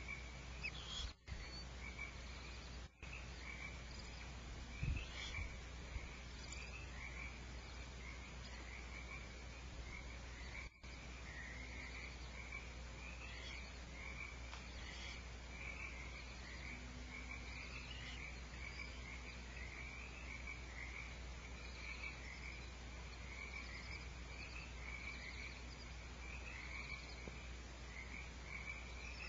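Steady chorus of frogs calling, a dense run of short, high repeated calls that never lets up, with a low hum underneath.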